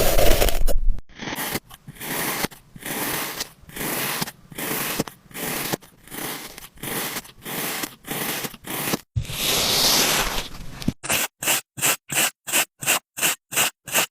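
Kinetic sand crunching and scraping in a series of short strokes, about two a second, then one longer scrape about nine seconds in, then quicker strokes about three a second.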